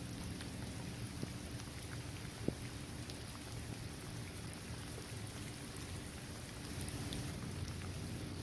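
Steady rain falling on a hard court, trees and grass, with scattered individual drops ticking through the hiss and one sharper drip about two and a half seconds in.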